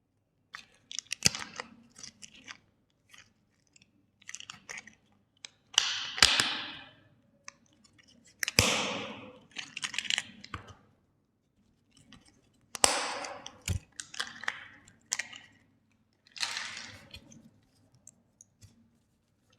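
Plastic cracking and crunching in about six separate bursts. Each opens with a sharp crack and fades into crackling, with short quiet gaps between them.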